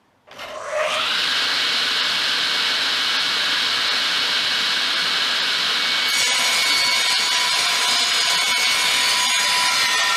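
Hafco Woodmaster SB-12 table saw starting up, its motor and blade rising to speed within about a second and then running steadily. About six seconds in the sound changes and several whining pitches come in as the blade cuts into wood for a test cut.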